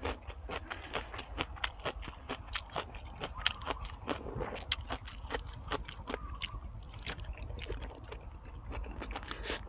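A person chewing crunchy food with the mouth close to the microphone: quick, regular crunches, several a second.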